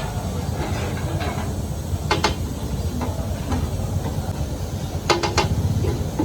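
Metal spatula clanking against a large iron tawa griddle as liver is fried, over a steady low rumble: a pair of ringing strikes about two seconds in and a quick cluster of three around five seconds in.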